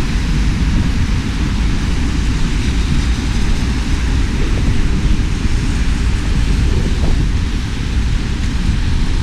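Steady hiss of falling rain with low, uneven wind buffeting on the microphone.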